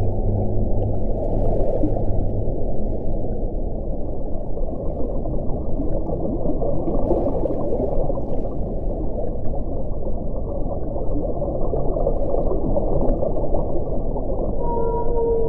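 Low, dense rush of wind blowing steadily, with a deep hum in the first two seconds and a howling tone that sets in near the end.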